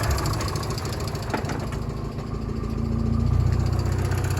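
Hyundai Excel's four-cylinder engine idling to warm up, with a light tapping the owner calls "a bit of a tapper". The idle grows slightly louder about three seconds in.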